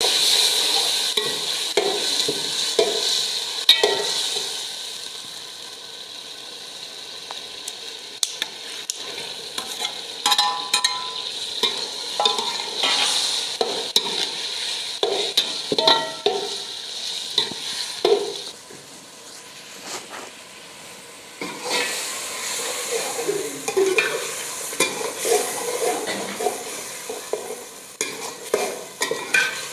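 Pieces of bird meat frying and sizzling in hot oil in a pan, stirred with a metal utensil that scrapes and clinks against the pan again and again. The sizzling is loudest at the start and dies down for a few seconds after the middle.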